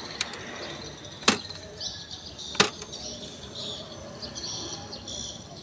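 Two sharp knocks about a second and a half apart, over a steady high chirping.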